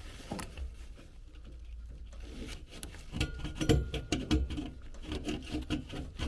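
Thermostat wire scraping and clicking as it is poked into the furnace inducer's pressure-switch hose port, a run of irregular small clicks and scrapes starting about two and a half seconds in. It is clearing grit from a port suspected of causing a pressure-switch-stuck-open fault.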